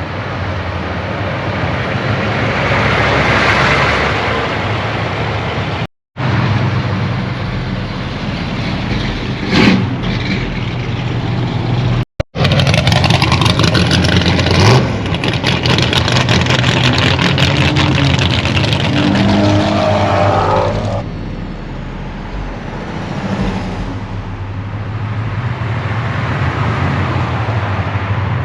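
Car engine running loud with a low rumble, revving up a few times, and it briefly cuts out twice.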